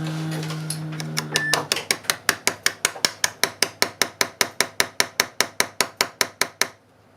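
Rapid, evenly spaced mechanical clicking, like a ratchet, about six clicks a second for several seconds, then it stops. A steady pitched hum comes before it.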